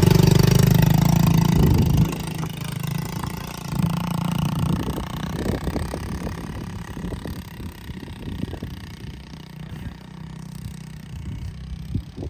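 Small dirt bike engine running loudly, then dropping away about two seconds in, with a brief rise about four seconds in before it fades under irregular low thumps.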